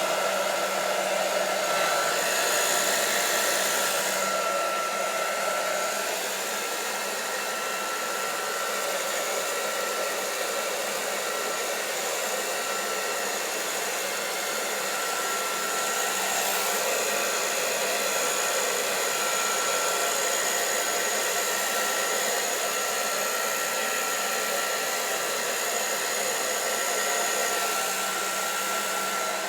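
Handheld hair dryer blowing steadily, with a high motor whine over the rush of air that shifts a little as it is moved about.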